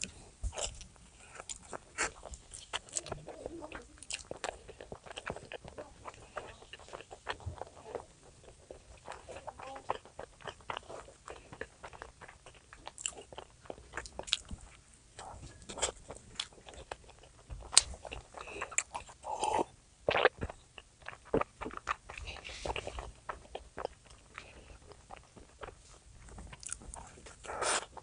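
A person biting and chewing food close to the microphone, with crunching and many small irregular clicks and smacks.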